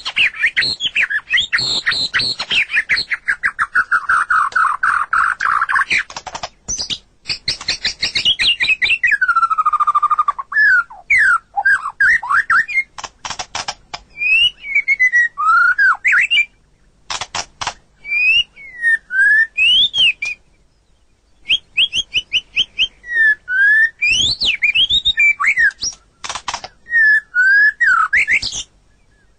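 White-rumped shama (murai batu) singing: a fast run of falling notes, then a long falling whistle and varied whistled phrases broken by sharp clicks, with a brief pause about two-thirds of the way through.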